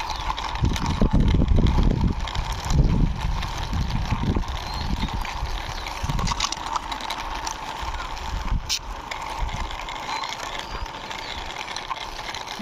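Plastic toy car being pushed by hand along a wall, its wheels rolling and scraping with an uneven rumble that is heaviest in the first few seconds. A single sharp click comes about two-thirds of the way through.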